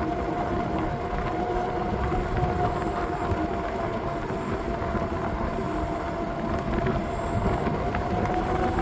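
A bike in motion: a steady mid-pitched whine that rises slightly near the end, over a low rumble of wind on the microphone.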